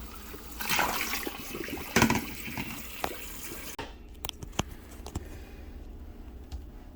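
Water splashing into a sink as the rinse water is poured off beans in a strainer, stopping abruptly about four seconds in. A few light clicks and knocks follow.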